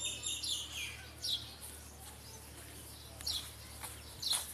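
Small birds chirping: short, high chirps scattered through, with a quick run of several notes at the start, over a steady low hum.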